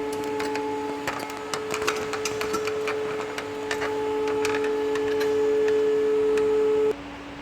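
A steady mechanical hum with a scatter of sharp clicks and crackles over it; the hum cuts off suddenly near the end.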